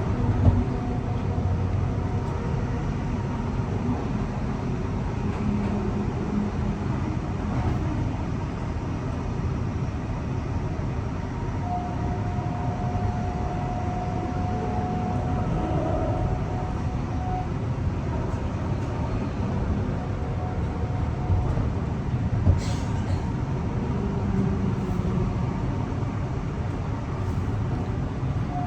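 Electric passenger train running, a steady rumble throughout, with a thin steady high tone that holds for about six seconds midway and a couple of sharp clicks near the end.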